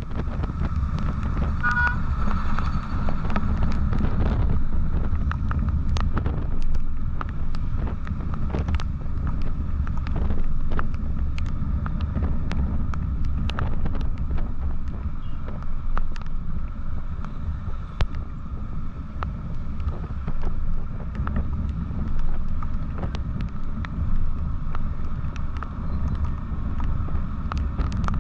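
Wind rushing over the microphone of a moving vehicle, over a steady low engine and road rumble, with many small ticks and knocks. A brief beep, like a horn, sounds about two seconds in.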